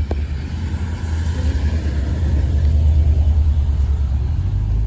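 Loud low rumble that builds to a peak about three seconds in and then eases off.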